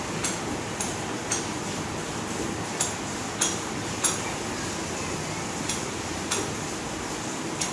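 Short, sharp clinks or ticks, about a dozen at uneven intervals of half a second to a second and a half, often in pairs, over a steady hiss.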